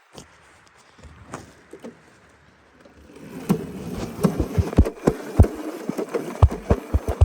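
Small dirt bike engine buzzing, louder from about three seconds in, with scattered knocks and thumps.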